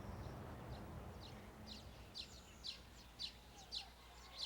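A bird chirping, short downward-sweeping chirps repeated about twice a second, starting about a second in, over faint low background noise.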